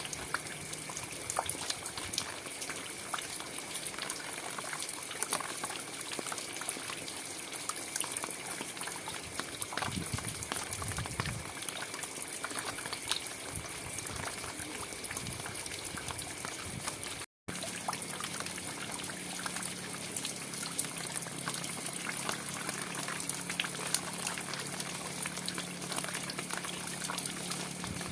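Steady rain with many individual drops splashing. About two-thirds of the way through it cuts out for a split second, and a faint low hum comes in after the cut.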